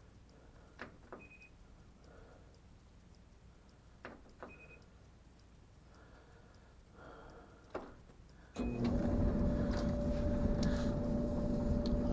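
Clothes dryer control panel: a few button clicks and three short beeps. About eight and a half seconds in the dryer starts on timed dry and runs with a steady motor-and-drum hum.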